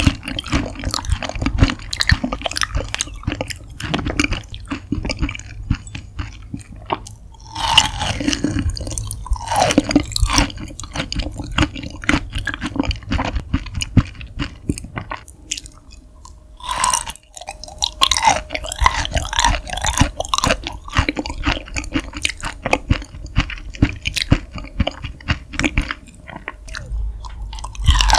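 Close-miked chewing of soft raw beef offal, raw beef spinal cord and liver, with dense irregular wet clicks and squishes from the mouth. The spinal cord is soft and mushy yet still makes chewing sounds.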